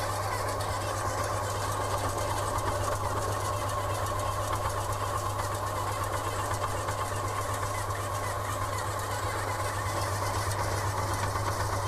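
Pellet-making machine running steadily, extruding catfish feed pellets, with a constant low hum and a steady higher drone.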